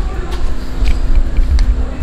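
A vehicle engine running with a heavy, uneven low rumble, over a steady hum and faint voices.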